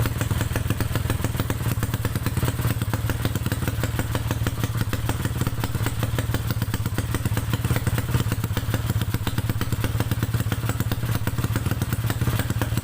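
A 200cc automatic scooter engine running steadily through a Kawahara AP Monyet aftermarket exhaust, with an even, rapid exhaust pulse and no revving.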